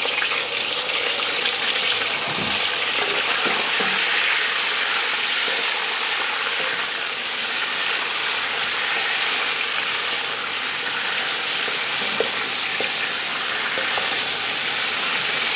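Raw chicken pieces searing in hot ghee in a karahi: a steady, dense sizzle, the pieces stirred and turned with a wooden spatula.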